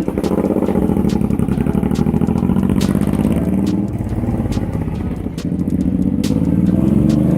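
Car engine running, its pitch rising near the end as it revs, with a few sharp clicks over it.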